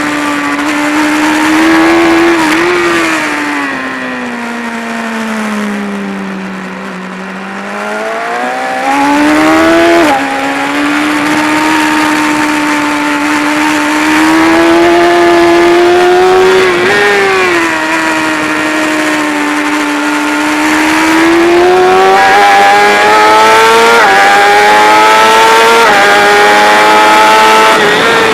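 A BMW S1000RR's inline-four engine, heard onboard at track pace. The engine note falls away under braking and downshifts, then rises hard again as the bike drives out, with a quick dip mid-way and two quick upshifts near the end, all over steady wind rush.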